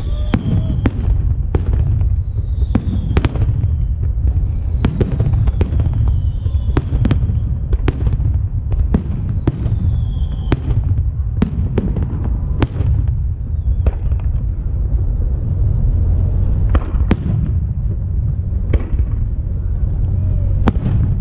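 Aerial fireworks shells bursting in a rapid string of sharp bangs, coming thick and fast through the first half and more sparsely later, over a steady low rumble.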